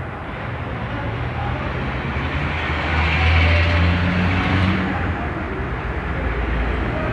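Engine of a vehicle running with a steady low hum, growing louder for a couple of seconds around the middle and then easing back.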